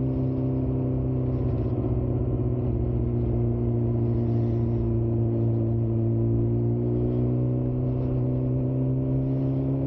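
Suzuki GSX-R 600's inline-four engine running at nearly steady cruising revs while the bike rides along, heard from on the motorcycle.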